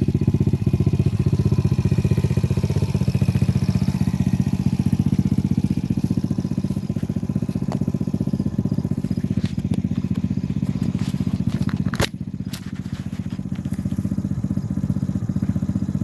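Small single-cylinder 125cc four-stroke quad engine idling steadily. There is a sharp click and a brief drop in level about three-quarters of the way through, and then the same idle carries on.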